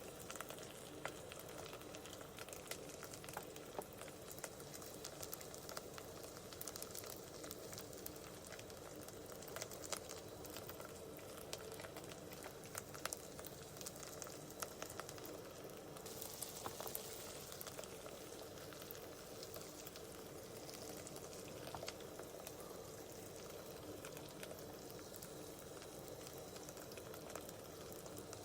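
Food frying in a pan, most likely the ginger-garlic paste base for a paneer curry, with a soft steady sizzle and many small crackles and pops. A faint steady hum runs underneath.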